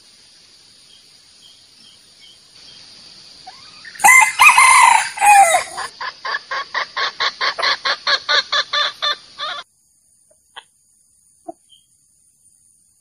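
A male junglefowl crowing loudly once, followed by a rapid run of clucks, about five or six a second, that stops suddenly.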